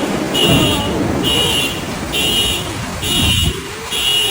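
An electronic warning beeper sounds a steady high beep about once a second, five times, over the loud hiss of wind-driven rain, with gusts buffeting the microphone twice.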